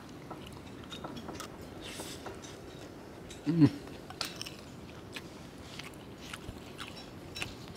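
A person chewing a mouthful of grilled fish and rice, with faint clicks of a spoon and fork against the plate. A short hum from the eater comes about three and a half seconds in.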